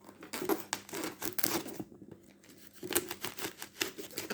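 Packaging being torn open and crinkled by hand: quick rustling, tearing strokes, pausing about two seconds in and then resuming.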